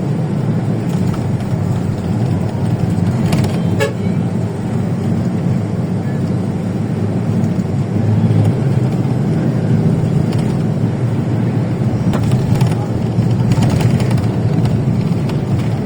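Steady expressway traffic noise: a continuous low rumble of trucks and cars, with a short horn toot.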